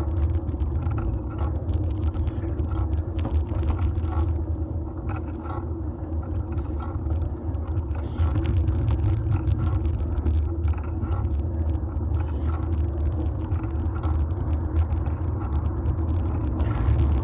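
Fixed-gear bike rolling along the road, a steady low rumble from the tyres and road vibration carried through a metal handlebar phone mount, with many small rattles and clicks.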